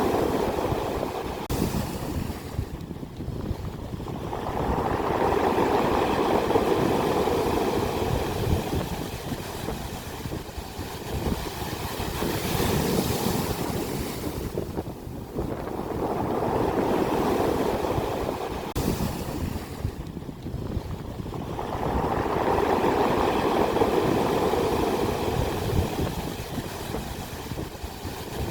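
Ocean waves breaking on the shore, each surge swelling and fading away, about every five to six seconds.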